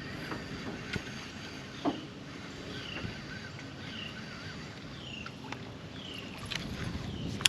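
Outdoor ambience on a small boat: a bird repeats a short downward-slurred chirp about once a second over a steady background hiss, with a few light knocks and clicks.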